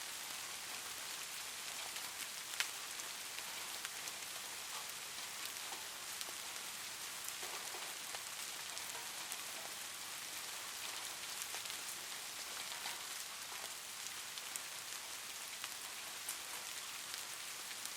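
Steady rain falling, a dense hiss with scattered drop ticks. One sharper drip lands about two and a half seconds in.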